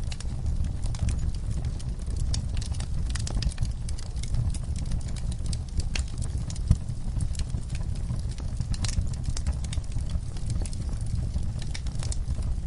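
Campfire crackling: irregular sharp snaps and pops over a steady low rumble of burning, with one louder pop a little past halfway.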